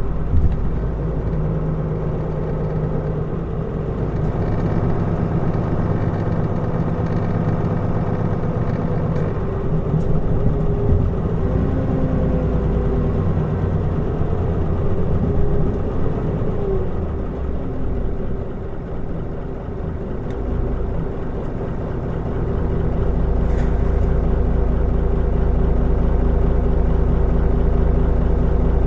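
Mitsubishi Fuso Aerostar city bus on the move, its diesel engine running under steady road rumble. The engine note shifts and glides through the middle, and a louder low rumble sets in about two-thirds of the way through.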